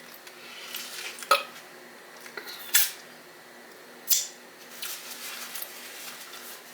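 Close-up eating sounds of someone finishing a chili cheese dog: a few sharp, wet mouth smacks and clicks, about a second and a half apart, with softer chewing ticks between.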